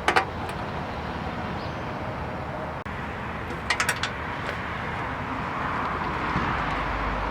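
Steady hiss of passing road traffic and wind, swelling slightly near the end. Sharp clicks come at the start and in a quick cluster of three or four about four seconds in, from hand tools and hardware on the car's engine bay.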